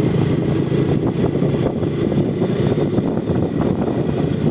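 Motorcycle engine running at a steady pace while riding along a road, with a constant low rumble.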